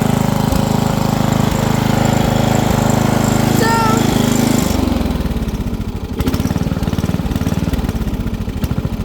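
Small engine of an off-road vehicle running steadily, then dropping to a lower, chugging idle about halfway through. A short high chirp comes just before the change.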